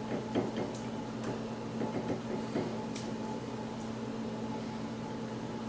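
Steady electrical hum of a kitchen appliance, with a few light clicks and taps over the first three seconds as food is handled in a bowl.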